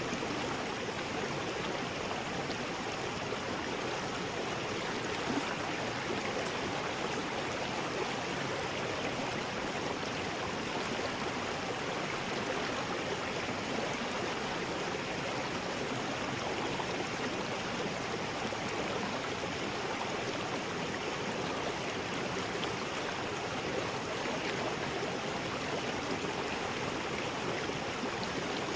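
River rapids rushing: a steady, even roar of fast water over rocks.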